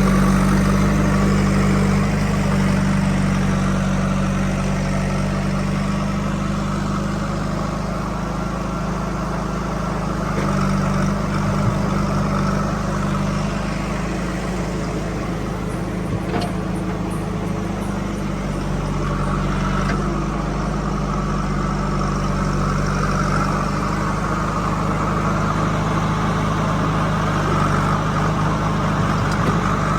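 Diesel engine of heavy farm or construction machinery running steadily.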